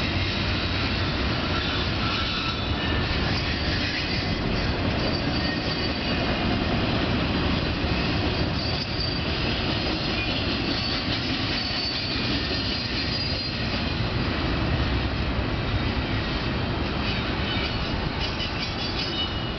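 Freight cars of an intermodal train rolling past on steel rails: a steady rumble of wheels on track, with brief high squeals from the wheels here and there.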